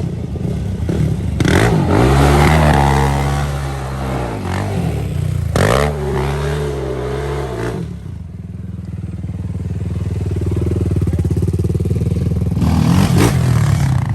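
Motorbike engines revving hard: two long rev sweeps with the pitch climbing and falling, about two and six seconds in, then a steadier engine drone with another short burst near the end.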